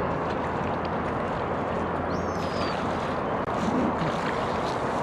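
Steady rushing outdoor ambience by a lake, with one short, high, falling bird call about two seconds in.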